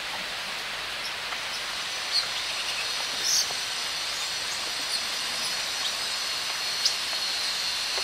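Steady outdoor hiss with a few short, high bird chirps scattered through it.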